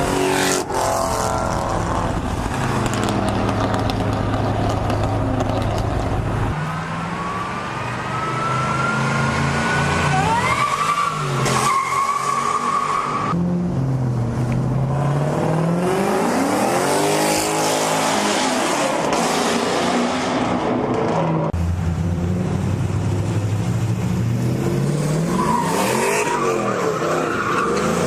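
V8 muscle cars revving hard and doing burnouts, engine pitch rising and falling repeatedly, with tires squealing.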